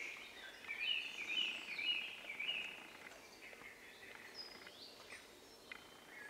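Birds singing: a run of quick, sweeping chirps in the first few seconds, then scattered fainter calls, over a steady outdoor hiss.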